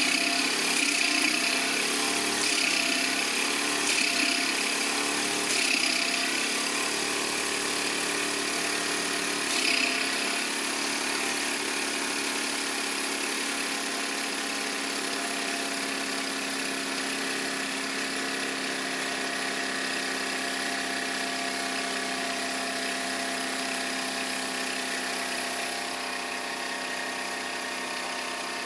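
Model live-steam tractor engines running with a steady mechanical whir. Several short bursts of hiss come in the first ten seconds or so.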